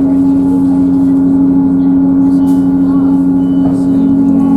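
Diesel multiple unit's underfloor engine idling while the train stands at a station, heard inside the carriage as a steady, loud two-tone hum.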